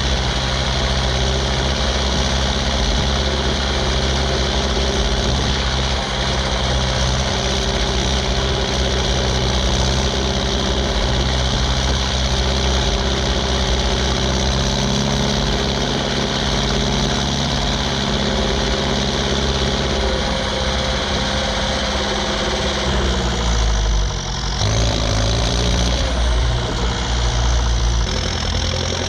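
Ursus 1014 tractor's turbocharged four-cylinder diesel, straight-piped, running steadily while pulling a load. About three-quarters of the way through, the engine note drops and wavers, then settles again.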